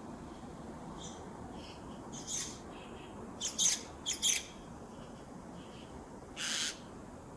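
A bird calling outdoors: a run of short, harsh, high-pitched calls, loudest as two quick pairs about halfway through, with one more near the end.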